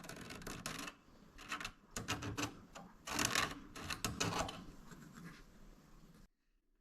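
Irregular scraping, rubbing and light clicks of hand work on a small job, cutting off abruptly near the end.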